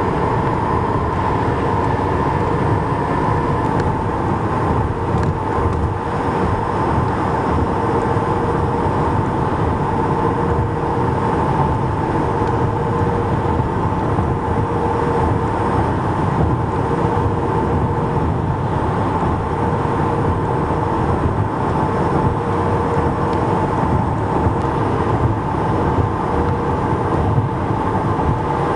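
Steady highway traffic: a continuous, even rush of tyres and engines from trucks and cars, with a steady whine running through it.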